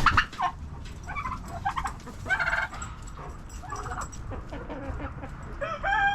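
Chickens calling and clucking in short bursts, with a rooster starting a long, steady crow near the end.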